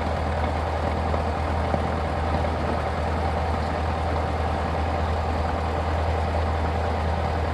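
Cessna 172's piston engine and propeller running at a steady speed, heard from inside the cabin as an even, unchanging drone.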